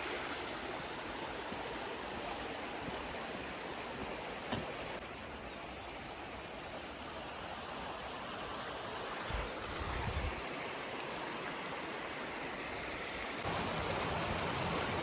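Steady rush of running water from a woodland stream and waterfall. Two brief low thuds come about nine to ten seconds in, and the rush gets a little louder near the end.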